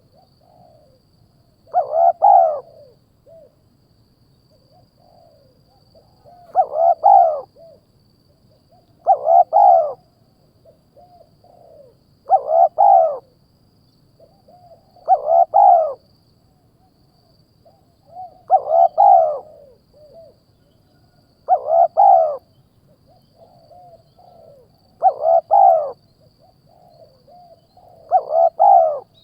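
A bird's call, a short cluster of arching notes, repeated nine times at intervals of about three seconds, with a longer pause after the first call.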